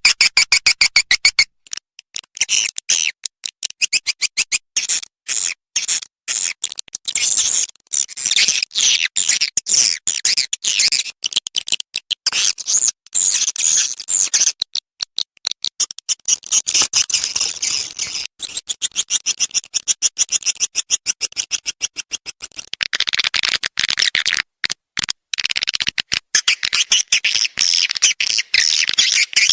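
Swiftlet lure call: dense, rapid high-pitched twittering chirps of edible-nest swiftlets, the kind of 'calling sound' played to draw swiftlets into a nest house.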